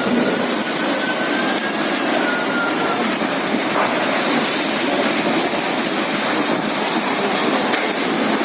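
Storm wind with heavy rain: a loud, steady rushing noise. A faint thin whistle drifts over it for about the first three seconds.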